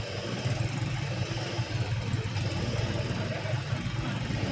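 Truck diesel engine running steadily at low revs.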